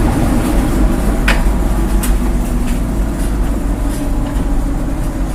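Steady low rumble of wind buffeting the microphone, with a vehicle engine running underneath, and one sharp click about a second and a half in.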